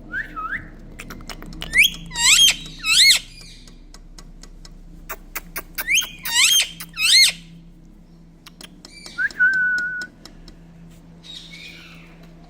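Indian ringneck parakeet calling: two quick groups of sharp, swooping whistled calls, with clicks scattered between them, and a longer, level whistle near the end.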